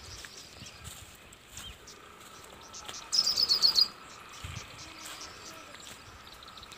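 A small bird calling: one quick run of high chirps, under a second long, about three seconds in, over a faint steady background.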